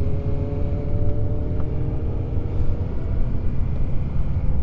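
Steady low rumble of motorcycle engines running, with an engine tone that drifts slightly lower.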